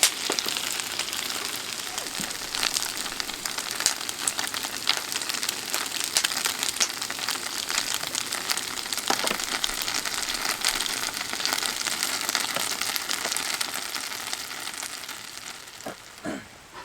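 Food sizzling and spattering in a hot pan: a steady hiss full of small pops, fading out near the end.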